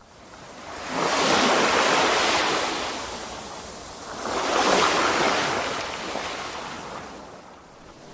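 Sea waves washing onto the shore, twice in turn: each one swells up to a hissing rush and then fades away.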